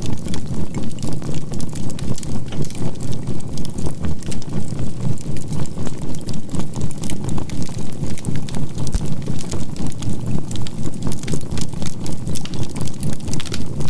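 Campfire crackling over a low synthesized drone that pulses evenly about three times a second, with a faint steady tone near 528 Hz: a mixed healing soundtrack of fire sound, binaural beats and a 528 Hz tone.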